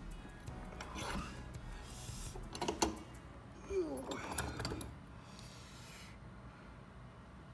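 Metal parts clinking and knocking as a new brass bushing is squeezed into a connecting rod's small end with a small vise. A couple of sharp clicks come about three seconds in and a short falling squeak about a second later; the bushing is going in tight.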